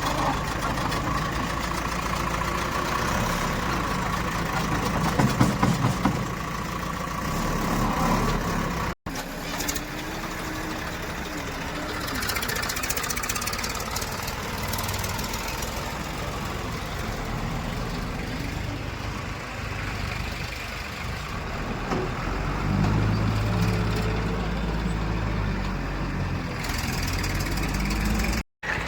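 Diesel engine of heavy farm or construction machinery running steadily, with two abrupt cuts to silence: one about a third of the way in and one near the end.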